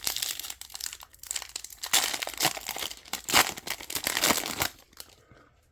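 A trading card pack's wrapper being torn open and crinkled in the hands, a dense crackling that stops a little before the end.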